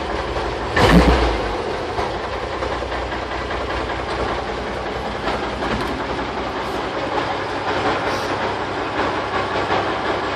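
1957 REO F-20 truck's gasoline engine running steadily just after its first start in about 20 years, fed by a temporary electric fuel pump. There is a brief louder burst about a second in.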